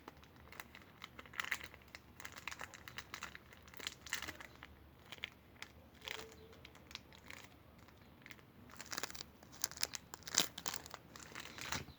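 Irregular crinkling and crackling, in uneven clusters of short crackles that grow denser near the end.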